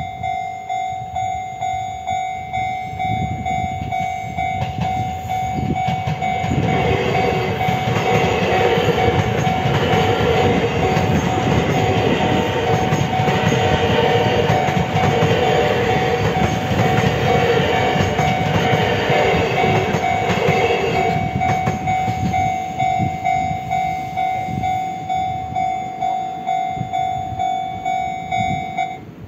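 Level-crossing warning bell ringing, a steady pulsing electronic tone about twice a second. After about six seconds a TRA EMU2000 Puyuma express electric train passes the crossing for some fifteen seconds, its wheel and rail noise loud over the bell. The bell stops near the end as the crossing clears.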